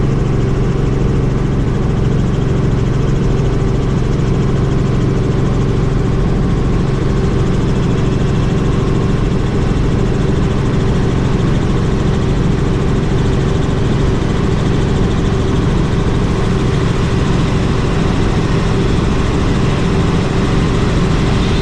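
Helicopter engine and rotor running, a steady unbroken drone with a low hum.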